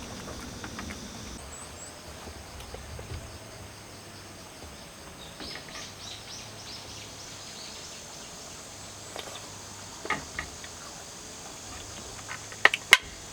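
Outdoor ambience of insects chirring steadily, with faint bird chirps, and a few sharp clicks near the end.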